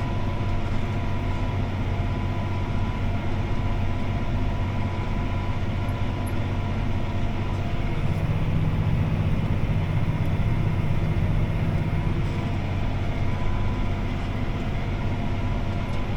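CLAAS ARION 650 tractor's engine running steadily under load as it pulls a disc harrow, heard from inside the cab. The low engine hum grows somewhat stronger for a few seconds around the middle.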